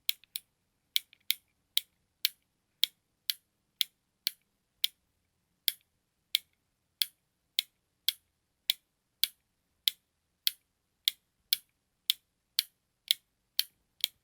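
A button clicking over and over: short, sharp, bright clicks about two a second, a few of them coming in quick pairs near the start.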